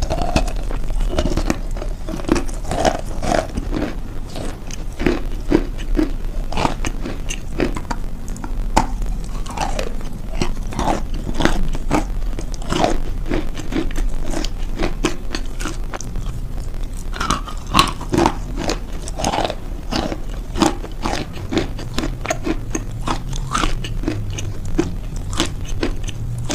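Close-miked chewing and crunching of a mouthful of food, a dense, irregular run of crisp crackles and wet mouth sounds, over a steady low hum.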